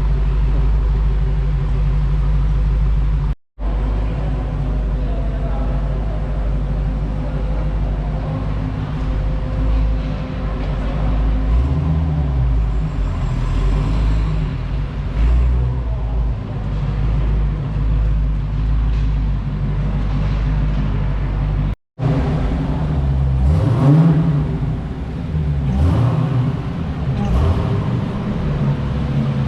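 Supercar engine running with a deep, steady rumble, revved in short blips around the middle and again near the end. The sound drops out for an instant twice.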